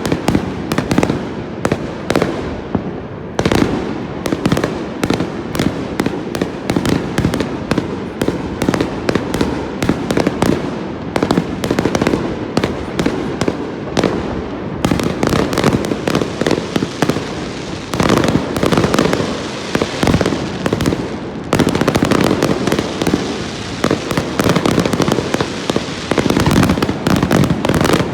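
Aerial fireworks display heard from close below: a continuous barrage of bangs and crackling bursts, many overlapping each second. It grows louder and denser about two-thirds of the way through.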